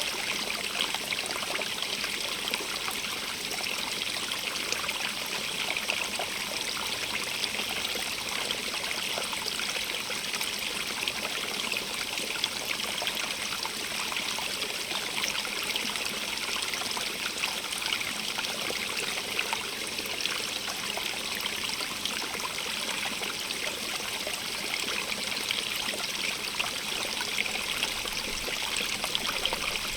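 Small stream of running water, splashing and trickling steadily over stones in a continuous hiss.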